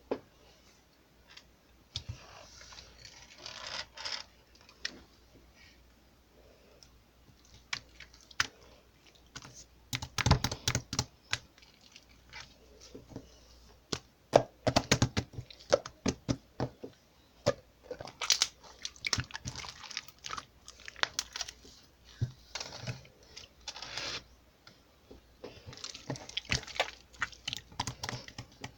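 Slime being handled, giving irregular sticky clicks and crackles in bunches, busiest and loudest through the middle.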